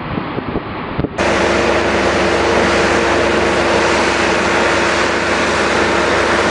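Heavy haul truck running steadily, a loud even rush of engine and road noise with a steady hum, starting abruptly about a second in after a quieter stretch.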